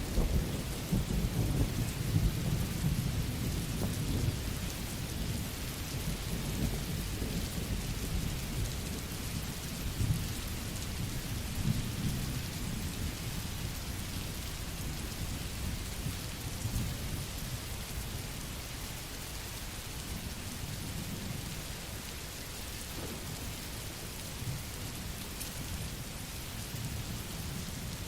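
Steady rain falling, with a low rolling rumble of thunder that is strongest in the first half and slowly dies away.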